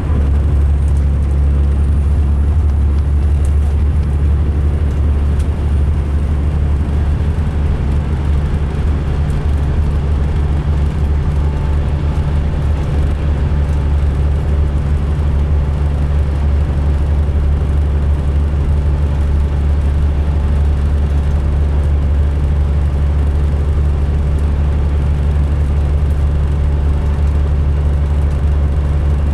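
Diesel engine of a 2005 MCI D4500 coach running steadily: a loud, even low drone with a steady hum above it, no change in pitch. The uploader calls this coach rough-sounding when running.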